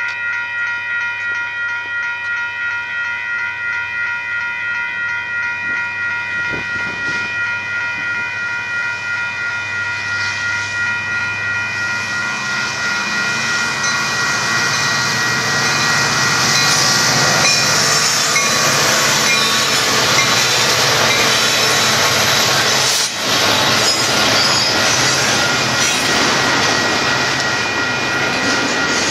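Railroad grade-crossing bell ringing with a steady, even beat; about halfway through, Union Pacific freight locomotives arrive and the louder rumble of the passing train, with wheel squeal and rail noise from the freight cars, builds over the bell and carries on.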